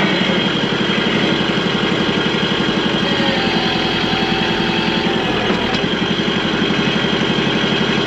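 Vehicle engine running steadily with a fast, even throb.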